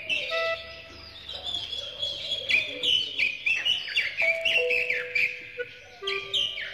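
A bird in a tree giving repeated short, falling, mewing calls that sound like a kitten, over a few held lower notes.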